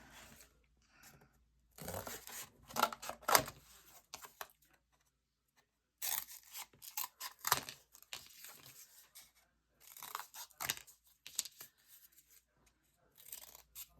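Cardboard and paper being handled and worked by hand, with short, sharp rustling and tearing-like strokes coming in irregular bursts separated by brief pauses.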